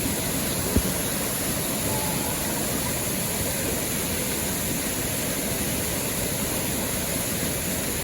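Steady rushing of a river waterfall, with a single sharp knock just under a second in.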